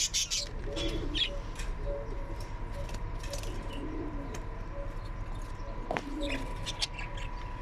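Pigeons cooing in low, repeated phrases, with scattered short high chirps from other small birds and one sharp click about six seconds in.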